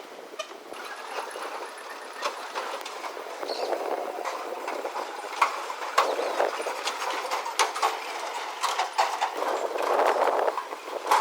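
Small vehicles, such as auto rickshaws or mini trucks, driving over a rough, broken road: a steady running noise with many clattering knocks and rattles, growing louder over the first few seconds.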